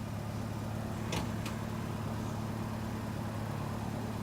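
Freshly rebuilt 1993 Acura Integra four-cylinder engine (B20 block with B16 head) idling steadily, with two light clicks about a second in.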